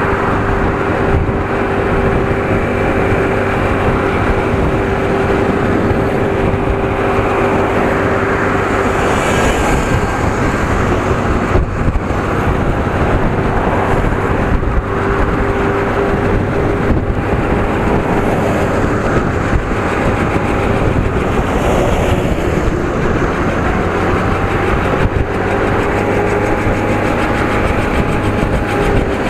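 Small single-cylinder-class mini motorcycle engine running steadily at high revs, around 7000 rpm, while riding, over a constant rush of road and wind noise; its pitch sags a little midway and rises again near the end.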